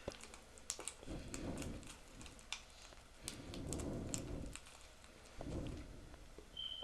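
Soldering flux paste being stirred in its tin: soft scraping in three stretches with light clicks of the stirrer against the tin. A short high tone sounds near the end.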